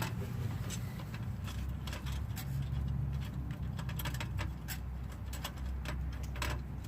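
Scattered light clicks and taps of metal being handled on a car's exhaust pipe while a sleeve is slid into place, over a low steady rumble.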